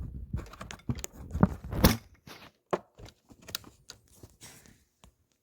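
Irregular handling noise from hands working a switch and multimeter probes: clicks, taps and rustling, busiest in the first two seconds, then a few scattered clicks.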